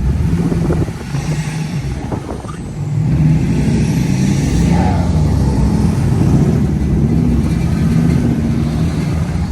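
Motor vehicle engine running with a low rumble that gets louder about three seconds in and then holds steady.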